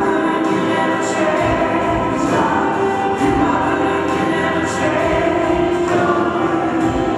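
Live worship music: several voices singing a song together over instrumental accompaniment.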